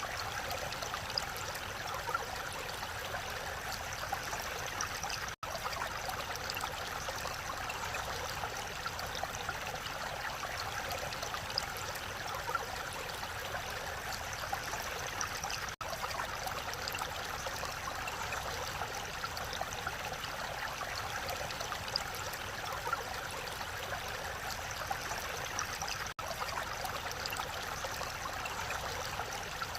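Mountain valley stream rushing steadily over rocks, an even wash of water noise. The sound drops out for an instant three times.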